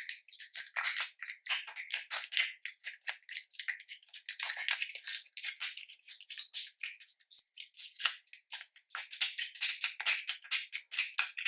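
Slime being kneaded and squeezed by hand, giving a rapid, uneven run of small, crisp crackling clicks and pops.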